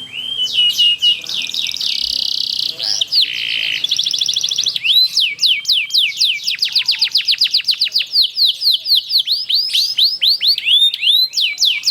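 Domestic canary singing a long rolling song ("ngerol panjang"). It opens with a buzzy trill, then a long unbroken run of rapid, evenly repeated down-slurred chirps, about seven a second.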